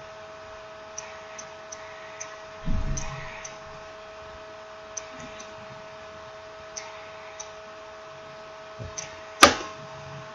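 Scattered light clicks and taps from handling small smartphone parts and tools on a work surface, with a dull bump about two and a half seconds in and a sharp knock near the end, over a steady electrical hum.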